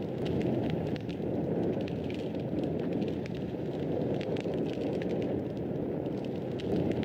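Wood fire burning in a fireplace: a steady low rushing of the flames with frequent small crackles and pops scattered throughout.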